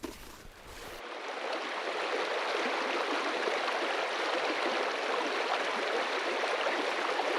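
Small brook babbling and running fast with winter runoff. The water sound comes in about a second in, swells briefly, then holds steady.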